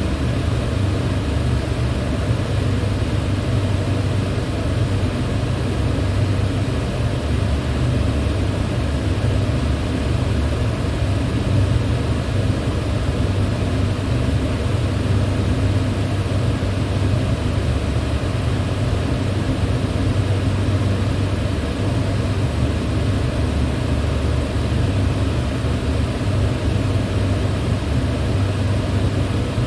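Electric fan running at a steady speed: an unchanging low hum under an even rush of air.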